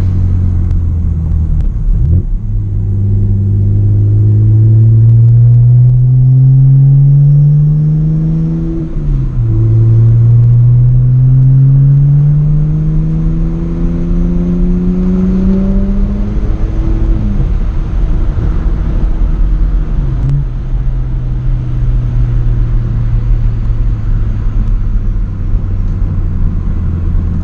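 Straight-piped BMW E90 exhaust under acceleration: the engine note climbs steadily, drops at an upshift, climbs again, then shifts twice more and settles into a steady cruising drone.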